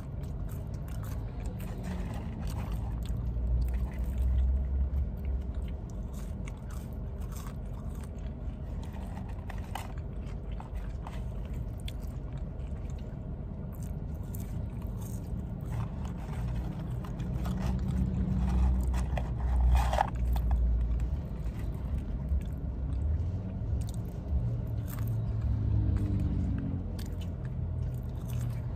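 Close-up chewing and biting of McDonald's French fries, with small scrapes and clicks, over a steady low rumble; one sharper, louder noise comes about two-thirds of the way through.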